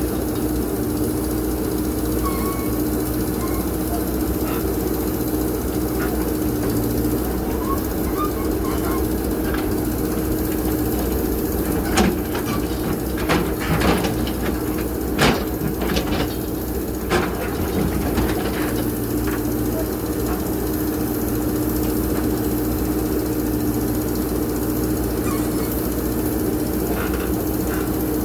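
JCB backhoe loader's diesel engine running steadily under work. Near the middle comes a run of sharp knocks and clanks, several in a few seconds, as the machine loads soil.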